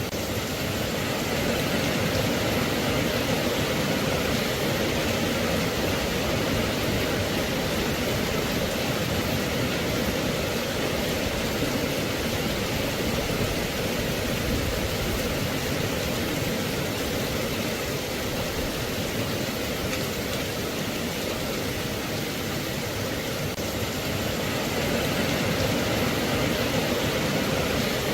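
Steady rain: a dense, even hiss with no pauses or single drops standing out.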